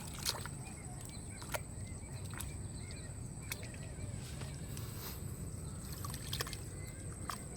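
Water sloshing with a few short, sharp splashes or knocks scattered through, over a steady low rumble and a steady high-pitched whine.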